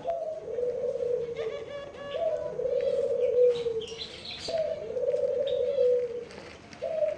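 Pigeons cooing: long low coos repeated about every two seconds, each starting with a short higher note and sliding slightly down, with short higher chirps from other birds over them.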